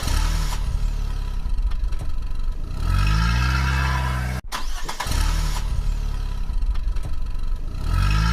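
Car engine sound played twice in a row with a short break between: each time a rough low rumble that revs up in pitch and then holds a steady drone.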